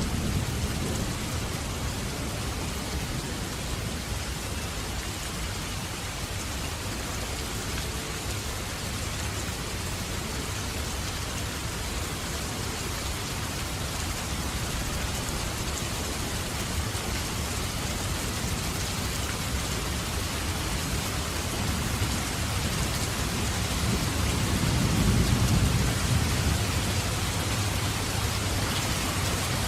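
Steady rain falling, with low rolling thunder underneath that swells to its loudest near the end.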